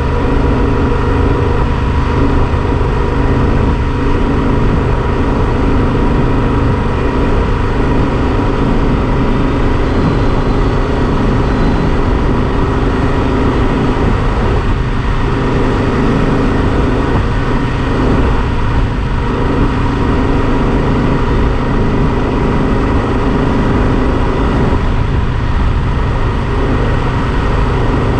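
Yamaha XT1200Z Super Ténéré's parallel-twin engine running at a steady cruising speed, with a constant rush of wind and road noise over it.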